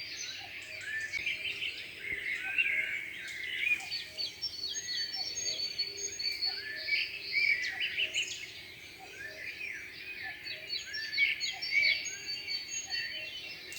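Many birds chirping and singing at once, their short overlapping calls forming a continuous chorus.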